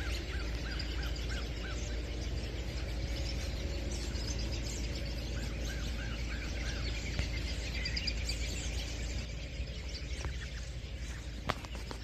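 A large flock of wild birds calling at once, a dense chatter of many overlapping chirps, with two runs of short, repeated arched notes near the start and again midway.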